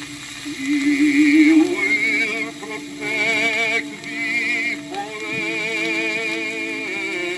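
Male voice singing held notes with a wide vibrato, played from a 1911 acoustically recorded 78 rpm shellac disc, with surface hiss underneath.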